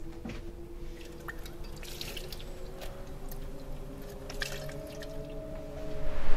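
A low, steady two-note drone that drifts slightly in pitch, with scattered light drip-like ticks; a loud rush of noise swells up near the end.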